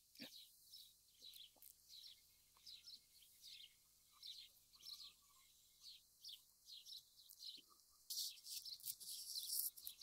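Faint songbird chirping: short high chirps repeated every half second or so, growing busier and louder in the last two seconds.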